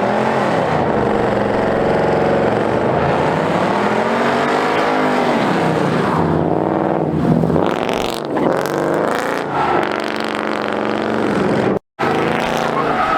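A car engine revving hard, its pitch climbing and falling over and over, with a brief cut-out near the end.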